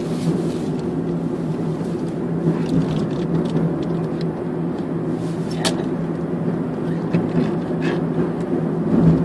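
Steady engine and road noise heard from inside a moving vehicle: a constant low hum over an even rush, with a few light clicks, one sharper about halfway through.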